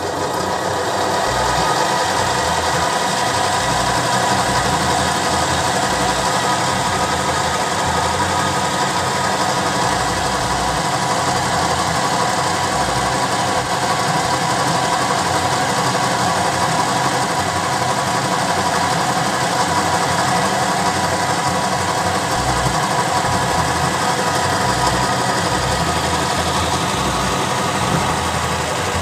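A motor-driven machine running steadily, building up over the first couple of seconds and then holding an even hum.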